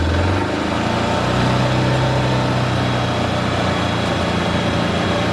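Vehicle engine running steadily under way with a low hum while hauling a load; its pitch rises slightly about a second in and then holds.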